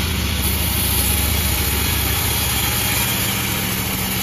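Panda36 sawmill's engine running steadily with an even hum.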